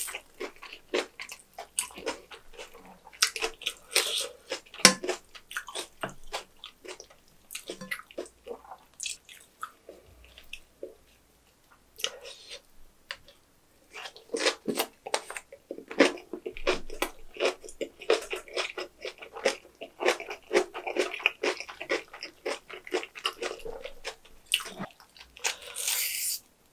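Close-up eating sounds of fresh napa cabbage kimchi: wet, crunchy chewing and mouth smacks of kimchi with rice. Near the start and again near the end there is a wet squishing rustle as gloved hands tear the seasoned cabbage leaves apart.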